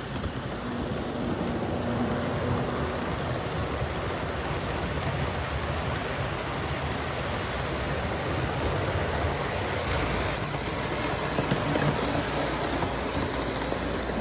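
Model train running: two model SD45 diesel locomotives pulling a long string of rail cars, wheels rolling over the track with a steady rolling noise and a low motor hum.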